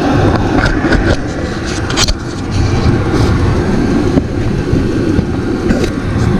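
Vevor 5 kW diesel air heater running: a steady rumbling burn and fan noise, with a few sharp clicks and knocks about one and two seconds in.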